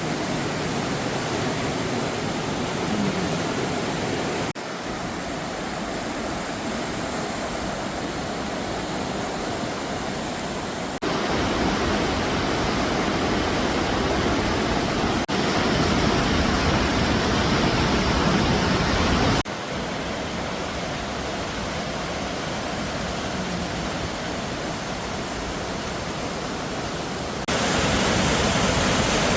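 Swollen, flooding Cedar Creek rushing past as a loud, steady wash of water noise. Its loudness steps abruptly up or down several times.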